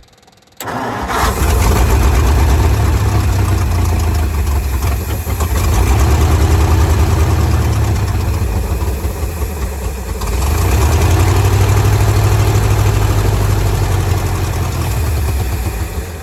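A 1955 Ford grain truck's engine is turned over and catches about half a second in. It runs for around fifteen seconds, dips briefly about ten seconds in, and fades away near the end. It is running on fuel fed by hand, with its fuel pump not yet hooked up.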